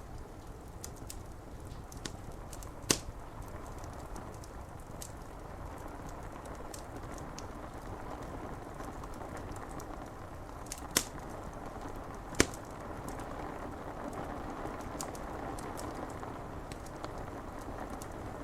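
Wood fire crackling with scattered sharp pops, three of them loud, over a steady hiss of rain on window glass.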